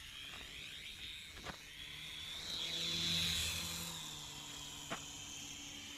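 Small remote-control toy helicopter flying: its motor and rotor give a high whine over a steady hum that swells louder about halfway through and then eases off. Two short clicks come through, one early and one near the end.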